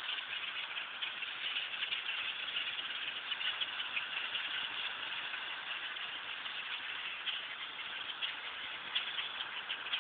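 A large flock of birds calling all at once: a dense, steady chatter.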